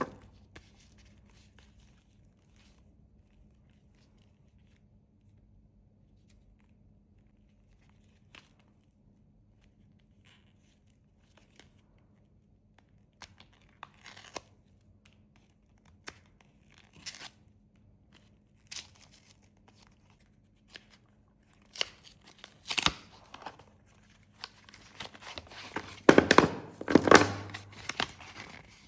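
Japanese candy wrappers being handled and opened: quiet at first, then scattered crinkles and taps, and louder tearing and crinkling of the packaging over the last several seconds.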